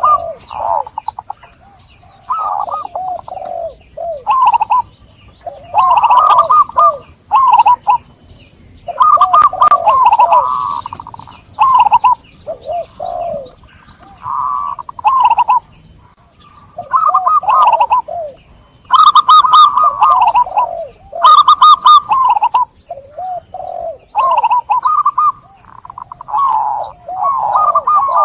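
Zebra dove (perkutut) cooing: repeated phrases of quick, rolling, bubbling coos, each one to two seconds long, with short pauses between them.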